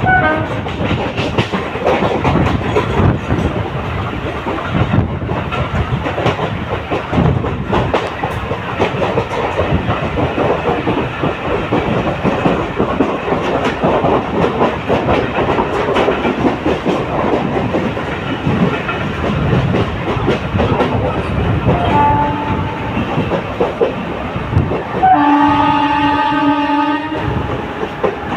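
A train running past, its wheels clattering steadily over the rail joints. A short horn toot sounds late on, then a train horn blast of about two seconds near the end.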